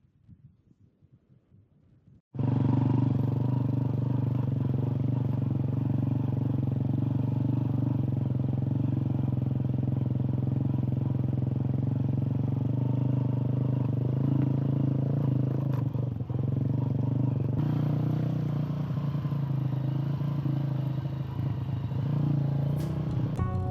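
Motorcycle engine running at steady revs, starting abruptly about two seconds in and holding an even pitch throughout.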